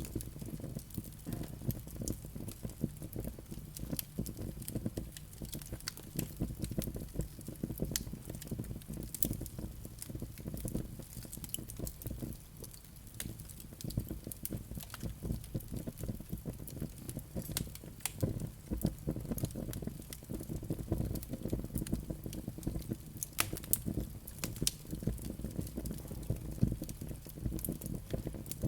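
Wood fire burning in a fireplace, crackling with frequent irregular sharp pops and snaps over a low steady rush of the flames.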